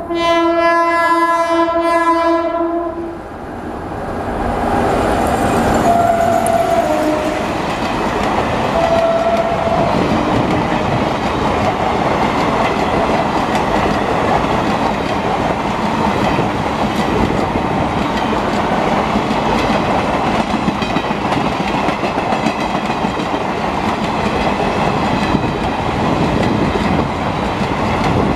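A train's horn is sounding and stops about three seconds in. The train then passes close by with a steady, loud rumble and the clatter of its wheels on the rails.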